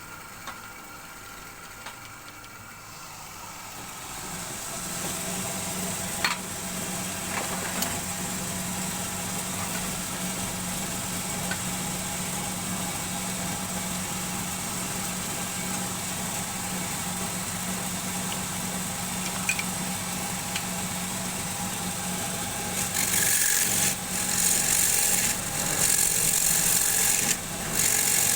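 Wood lathe motor running with a steady hum that grows louder about four seconds in. Near the end a turning tool cuts into the spinning wood in loud rasping bursts.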